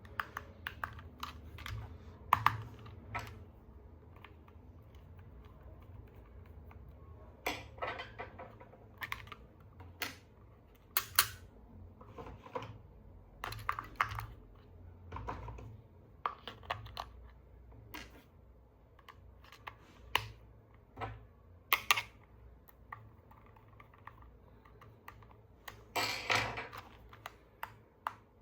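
Irregular sharp clicks and light taps of hard plastic being handled, like a toy vehicle and its packaging being turned over and fitted together, over a faint steady low hum.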